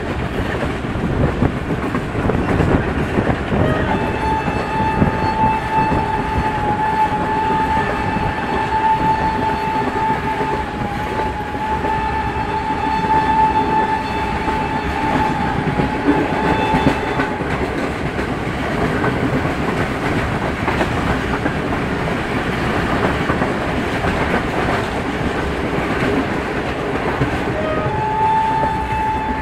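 A passenger train running, heard from inside a carriage, with steady rumble and wheel clatter on the rails. The horn sounds one long, steady blast from about four seconds in to about seventeen seconds, and starts again near the end.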